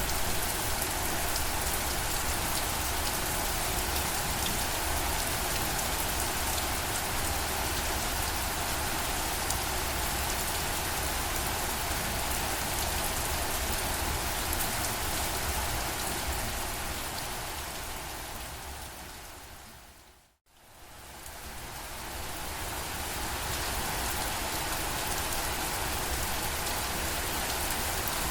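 Steady rain falling, an even hiss of many drops. About two-thirds of the way through it fades out to silence for a moment and fades back in.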